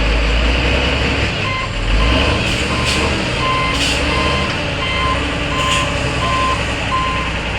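A truck's reversing alarm beeping about twice a second, starting about a second and a half in, over the low running of a heavy truck engine.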